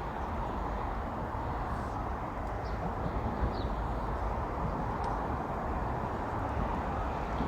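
Steady outdoor background noise: an even rushing hiss with a low rumble underneath, and a few faint short high chirps about three seconds in.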